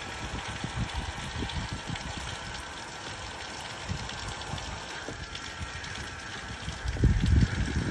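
Wind buffeting the microphone in uneven gusts, with a stronger gust about seven seconds in.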